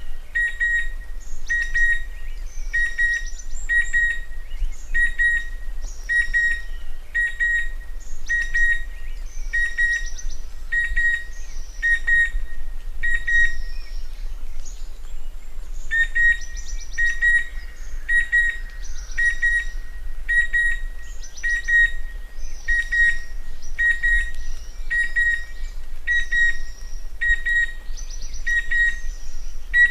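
Chestnut-winged cuckoo calling: a long run of short whistled notes of one pitch, evenly repeated about three every two seconds, broken by a pause of about two seconds near the middle. Fainter, higher chirps from other birds run underneath.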